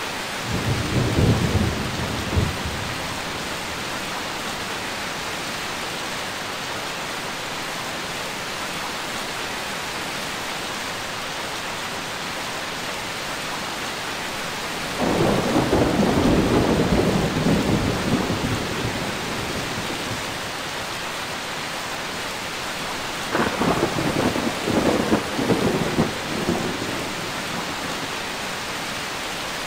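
Steady rain with three rolls of thunder: a short low rumble at the start, a longer rumble that begins suddenly about halfway through and fades slowly, and a crackling peal with several sharp cracks near the end.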